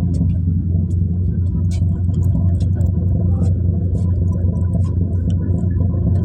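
A ferry's engine running under way: a steady low drone with a faint steady whine above it and scattered light clicks.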